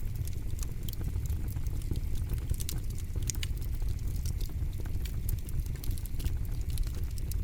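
Wood fire crackling: frequent irregular sharp snaps and pops of burning wood over a steady low rumble of flames.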